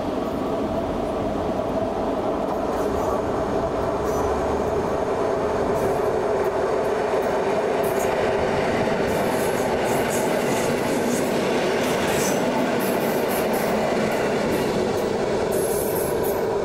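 Electric multiple unit passenger train passing close by: a steady rumble of wheels on the rails, with short high squeals and ticks from the wheels in the second half as the cars go past.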